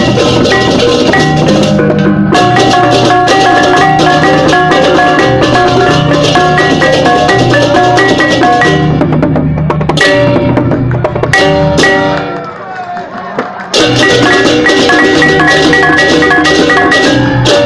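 Balinese gamelan music with drums and bronze gong-chimes playing fast interlocking patterns, typical of the baleganjur processional ensemble. The music drops back briefly about twelve seconds in, then comes back in at full strength.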